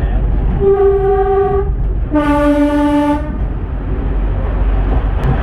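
Two-tone train horn sounding in a tunnel: a higher note of about a second, then a lower note of about a second, over the steady low rumble of the diesel multiple unit running.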